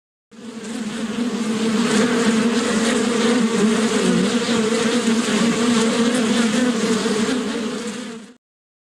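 Bees buzzing: a steady, slightly wavering buzz that fades in near the start and fades out about eight seconds later.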